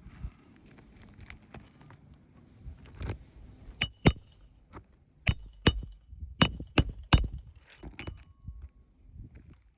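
Hammer blows ringing on steel during shingle nail removal: two sharp strikes, then five more about half a second apart.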